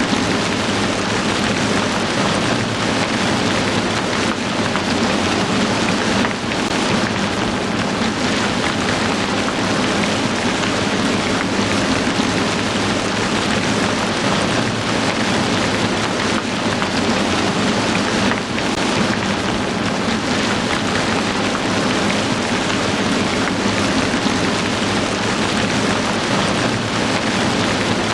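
Heavy rain falling steadily: a dense, even hiss of many drops with no letup.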